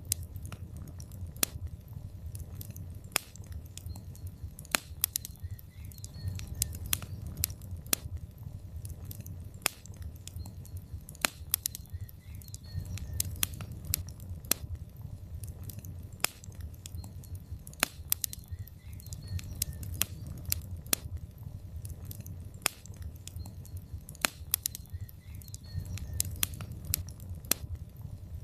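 Wood logs burning in a fireplace: irregular sharp crackles and pops, several a second, over a low steady rumble of the flames.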